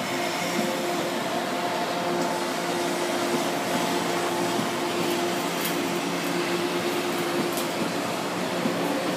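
JR 189 series electric multiple unit passing slowly close by: a steady whirring drone from its running gear and onboard equipment, with a couple of faint clicks.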